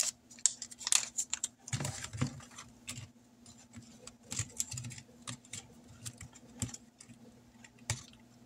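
Paper money and envelopes being handled on a tabletop: scattered light rustles, taps and small clicks.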